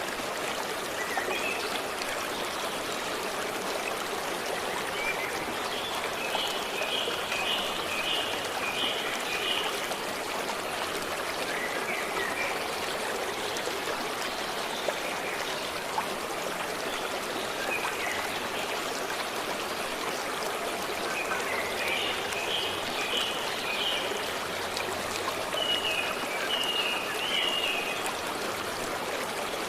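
Forest stream flowing steadily, with a bird calling several times over it in short series of high, repeated notes.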